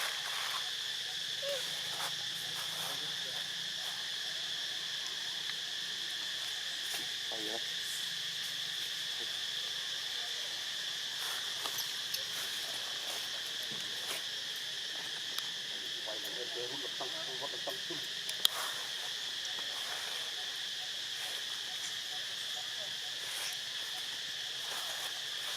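Steady, high-pitched chorus of insects droning continuously, with a few faint scattered clicks and one sharp tick about eighteen seconds in.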